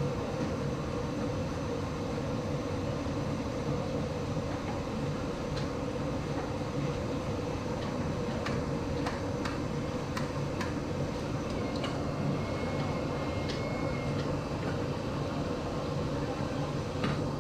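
Chekkalu deep-frying in hot oil: a steady sizzle with scattered sharp pops and crackles over a low, even hum.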